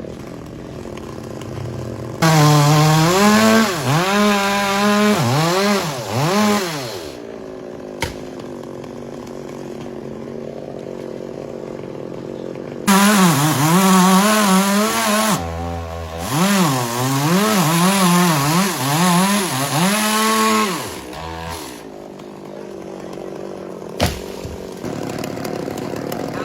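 Chainsaw running, revved hard in two spells with its pitch swinging up and down again and again, and dropping back to a lower idle in between.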